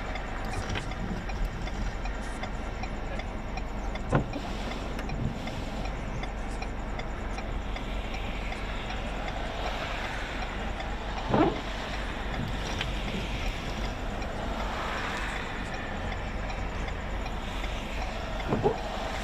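Steady vehicle noise with wind, broken by three short knocks spread several seconds apart.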